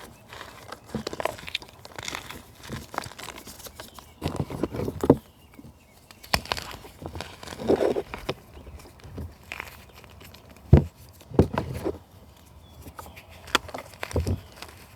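Natural material being crushed for ASMR: irregular crunching and crackling, with sharp snaps about five seconds in and again near eleven seconds.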